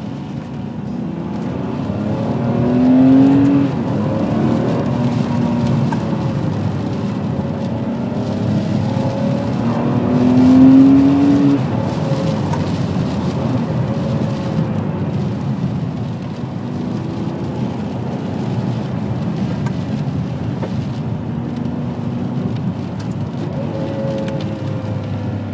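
Ferrari 599 GTB Fiorano's Enzo-derived V12 engine running on the road, rising in pitch and loudness twice as the car accelerates, about three and eleven seconds in, with steady cruising between.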